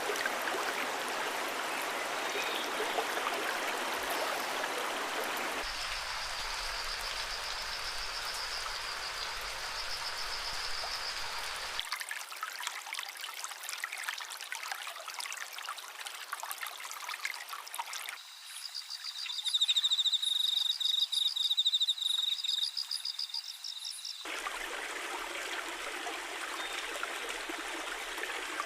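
Flowing stream water in a string of nature recordings that change abruptly several times. A steady high tone sits over the water in one clip. In the loudest clip, rapid high trilling calls are repeated over a thin hiss.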